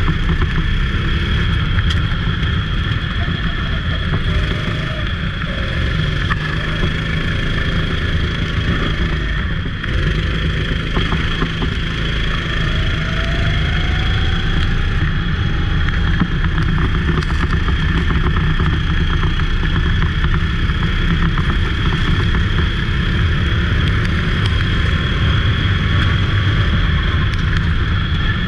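Racing go-kart engine running hard and steady at speed, a constant high whine over a low rumble, easing slightly about a third of the way through before picking up again.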